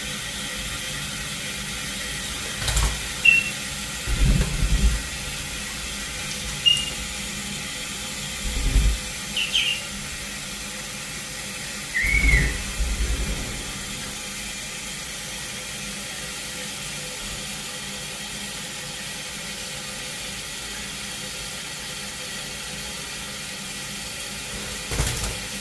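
A few short, high parrot chirps, one of them a rising-then-falling call, over a steady hiss, with several dull low thumps in between.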